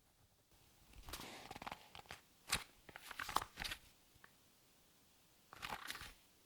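Sheet of drawing paper handled close to the microphone, crinkling and rustling in several short bursts with sharp crackles.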